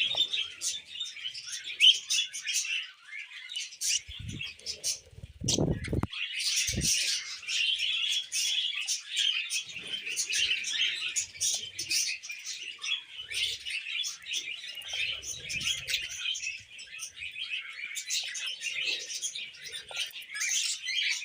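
A pair of budgerigars warbling: a fast, unbroken run of high chirps and chatter that thins out briefly about four to six seconds in, when a few low thumps are heard.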